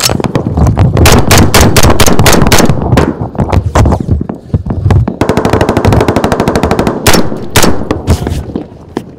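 Close automatic weapons fire in a firefight: rapid bursts of shots, then about five seconds in one long unbroken burst lasting about two seconds, followed by a few single shots.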